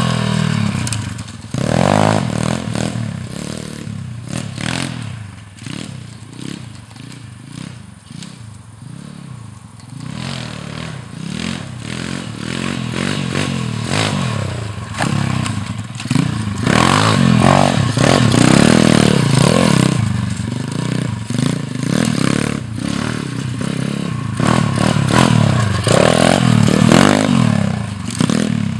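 Four-stroke pitbike engine revving up and down over and over as the bike is ridden around a dirt track, its pitch rising and falling with each throttle change, with scattered knocks and rattles. It drops quieter for several seconds after the start and grows louder again in the second half as the bike comes nearer.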